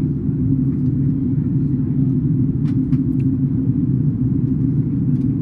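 Steady low rumble inside the cabin of an Airbus A330-200 airliner descending for landing: engine and airflow noise, with a few faint clicks near the middle.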